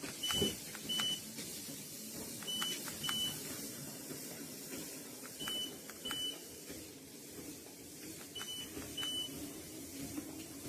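Foldable walking-pad treadmill running with a steady low hum. Four pairs of short high electronic beeps, each with a faint click, come about every three seconds.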